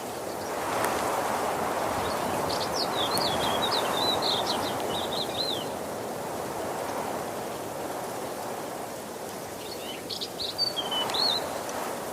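Waterfall water rushing steadily, swelling for a few seconds early on. A small songbird sings over it: a run of quick high chirps lasting about four seconds, then a shorter phrase near the end.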